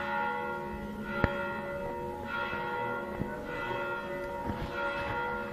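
Church bells ringing, struck about once a second with long overlapping hum. A single sharp crack about a second in.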